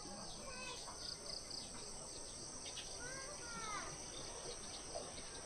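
Crickets and other night insects chirping in a faint, steady high-pitched drone, with a few short sweeping chirps about three seconds in.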